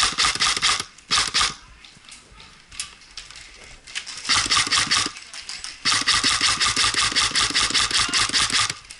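Airsoft gun firing rapid semi-automatic shots, about eight a second, in four strings with pauses between them, the last and longest running nearly three seconds.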